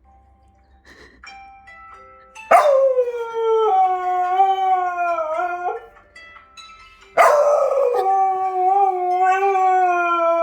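Jindo dog giving two long, drawn-out howls, each about three seconds, with a wavering pitch; the second slides down at its end. The howling is set off by a Samsung phone's 2013 default alarm tune, whose faint melody notes play in the first couple of seconds.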